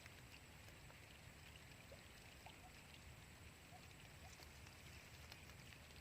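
Near silence: faint outdoor ambience with a steady low hum and a few faint ticks.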